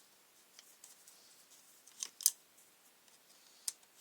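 A few sharp metallic clicks of an Allen key and small metal parts being handled as a new carburettor is bolted onto a strimmer: one at the start, two close together about two seconds in (the second the loudest), and one near the end.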